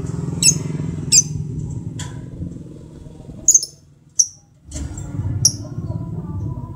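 Lovebirds giving short, shrill chirps, about five spread out, over a steady low rumble that drops out briefly about four seconds in.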